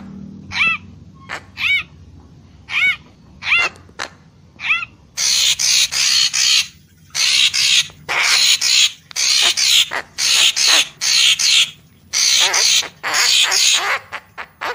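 Murai Papua bird song, a recording used as a lure call: short arched whistled notes about once a second, then from about five seconds in harsh, raspy chattering phrases repeated in quick succession, cutting off abruptly near the end.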